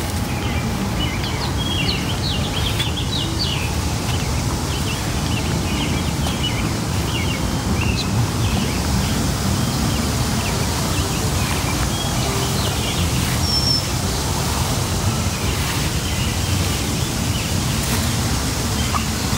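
Birds chirping and singing in many short calls, over a steady low rumble.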